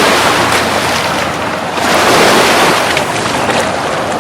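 Ocean surf washing onto the beach, a steady rush of noise that swells and eases, loudest about two seconds in.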